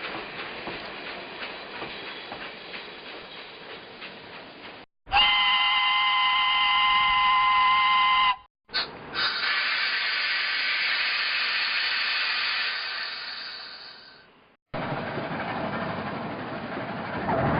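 A string of separate train sound effects: rhythmic clicking for about five seconds, then a steam locomotive whistle sounding a steady chord of several tones for about three seconds, a short toot, and a breathier whistle mixed with steam hiss that fades away. After a cut comes steady train running noise with a brief high squeal near the end.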